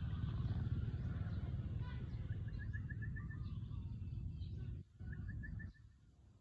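A steady low rumble that drops away suddenly about five seconds in. Over it a small bird sings two quick runs of high chirps, the first about two seconds in and the second near the end.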